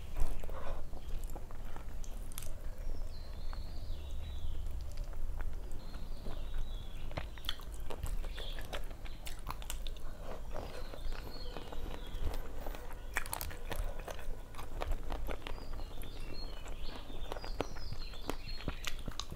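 Close-miked chewing and mouth smacking as a person eats rice and fried fish by hand, with many small wet clicks from the mouth and fingers.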